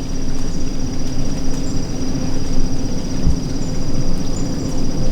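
Steady high, pulsing trill of insects, crickets or katydids, over a steady low rumble, with one low thump a little after three seconds in.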